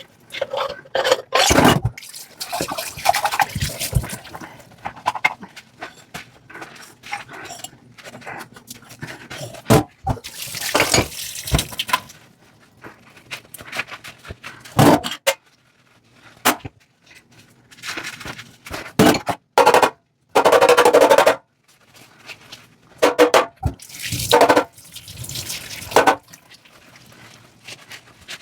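Dishes being washed by hand in a sink: short splashes and pours of water come and go, with sharp clinks and knocks of dishes between them and brief quiet gaps.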